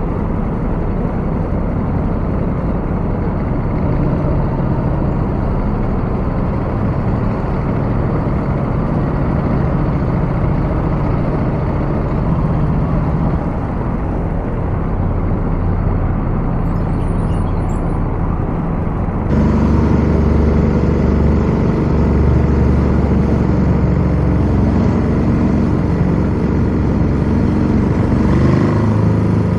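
Ducati Scrambler 1100's air-cooled L-twin running while riding in strong wind, the wind rushing over the microphone in a dense, steady noise. The sound changes abruptly about two-thirds of the way through, with a heavier low rumble afterwards.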